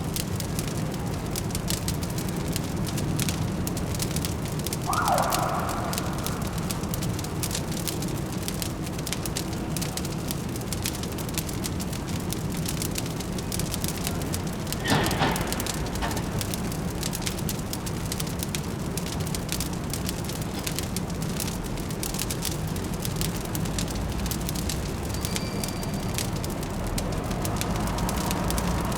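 Wood fire crackling with many small snaps over a steady low city hum, with a brief louder sound about five seconds in and a sharper, louder pop about fifteen seconds in.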